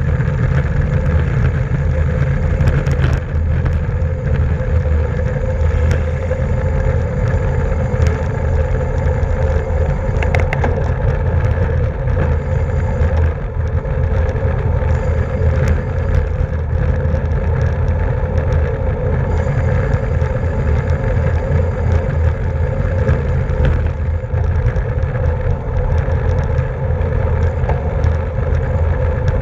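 Steady wind rush and road rumble on a bicycle-mounted camera at racing speed, with a steady whir from the tyres and drivetrain and a few light clicks.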